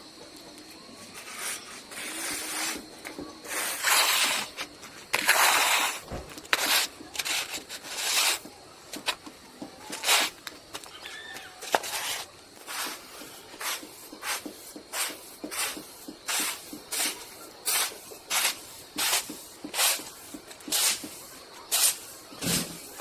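Floor wiper pushing and scraping drying paddy rice into heaps, in repeated scraping strokes: a few long strokes at first, then quicker ones about one and a half a second.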